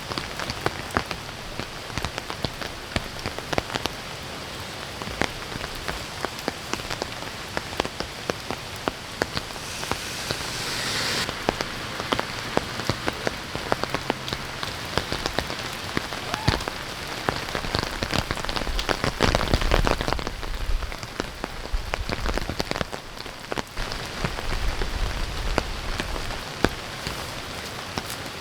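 Heavy rain falling, with a dense patter of sharp drop ticks close to the microphone. A brief hiss comes about ten seconds in, and a couple of low rumbles follow in the second half.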